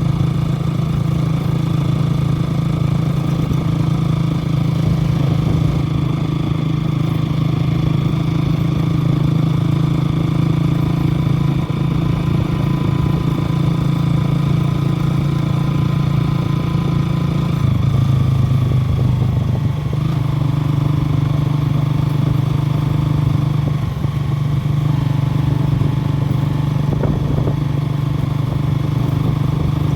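A motor running steadily with a low, even drone. Its pitch shifts about 18 seconds in, then settles again.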